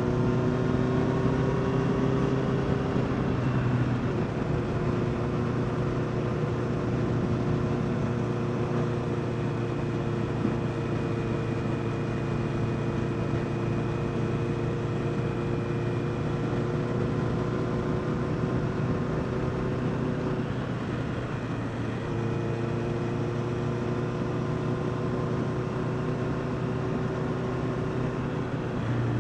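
Honda CBR650R's inline-four engine running at steady riding speed, its note mixed with wind and road noise. The engine note changes a few seconds in and again about 21 seconds in.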